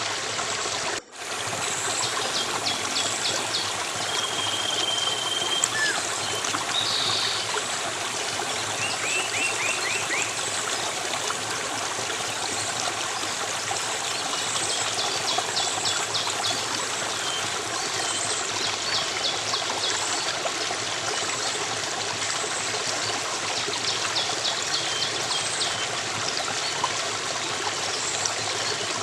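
Steady running stream water with small birds chirping and trilling over it, including one held whistled note. There is a brief drop-out about a second in.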